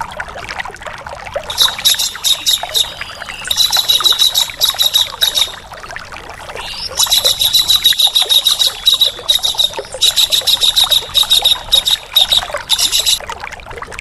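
Recorded songbird calls used for training cage birds: four long bouts of harsh, rapid, high-pitched rattling chatter, over a steady trickle of running water.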